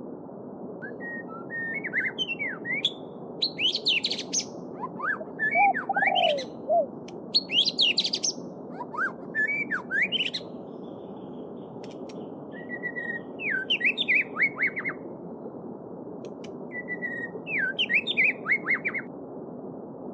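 Songbirds singing in short phrases of quick rising and falling whistled notes, several phrases in a row with brief pauses, over the steady rush of a babbling stream.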